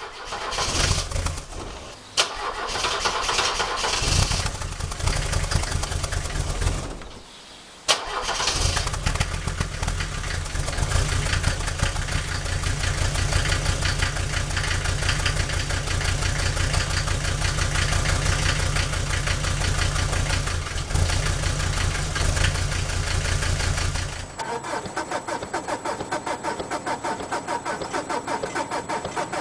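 Diesel car engines starting from cold and running. One catches suddenly about eight seconds in and settles to a steady run. Just after the middle of the second half, the sound cuts to another engine idling with an even pulsing beat.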